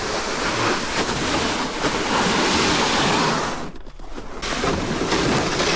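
Wind blowing over the microphone outdoors, a steady rushing noise that drops briefly about four seconds in.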